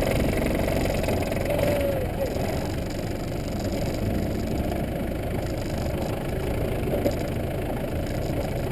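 Off-road 4x4's engine running steadily under load as the vehicle climbs a steep dirt slope.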